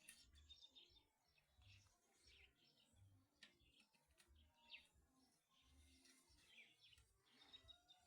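Near silence, with faint bird chirps scattered throughout.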